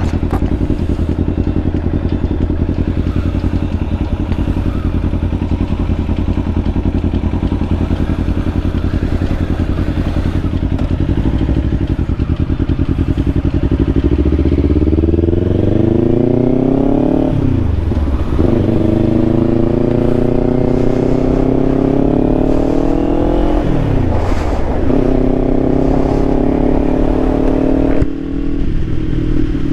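Kawasaki Ninja 500 parallel-twin motorcycle engine running steadily at low revs, then accelerating from about halfway through. The revs climb, dip sharply at two upshifts about six seconds apart, and climb again, then ease off near the end.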